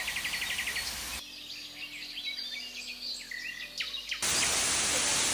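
Rainforest ambience: a quick pulsed trill, then several birds chirping and whistling over a quiet background. About four seconds in, a louder, steady rush of falling water takes over.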